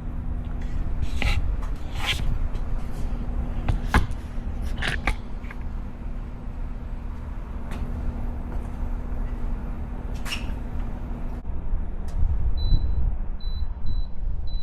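Several sharp clicks and knocks from plastic parts being handled, over a low steady hum. Near the end comes a run of short, high electronic beeps, typical of buttons being pressed on the mini fridge's control panel to set the temperature.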